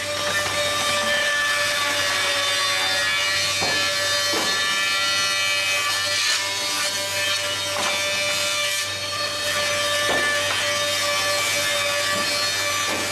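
Double-sided wood planer running and planing stock: a steady machine drone with a held whine over the rush of the cutterheads on wood.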